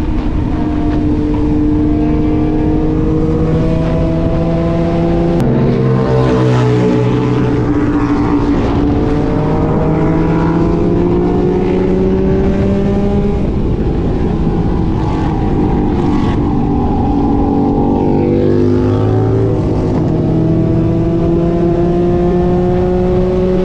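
Motorcycle engine running under way, its pitch climbing steadily as it accelerates, dropping sharply about five seconds in as it changes gear, then climbing and easing off again several times, over a steady rush of road and wind noise.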